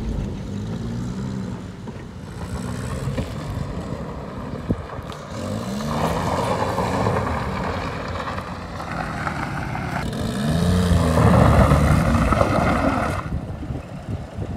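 Maruti 800's small three-cylinder petrol engine revving up and down over and over as the car is driven over rough ground, with two stretches of louder rushing noise.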